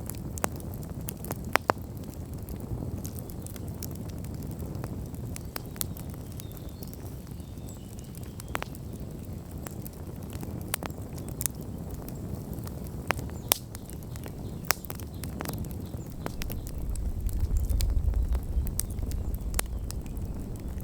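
Wood campfire burning, with irregular sharp crackles and pops over a steady low rush of flame. A deeper low rumble swells in near the end.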